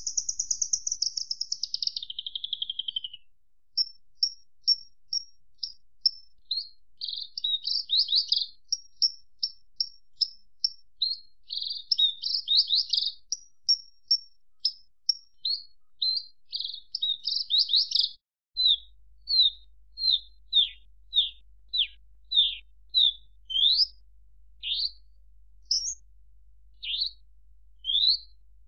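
Australasian bush lark (branjangan) singing: a fast trill that drops in pitch over the first few seconds, then a long run of short, varied chirps and whistled notes, some rising and some falling, in quick succession.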